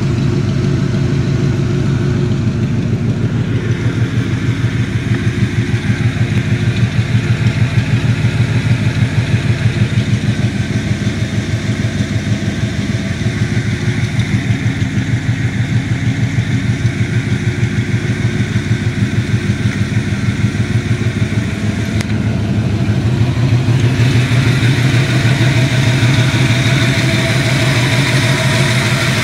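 Rat rod's exposed V8 engine with tube headers idling with a steady, pulsing beat, growing a little louder near the end.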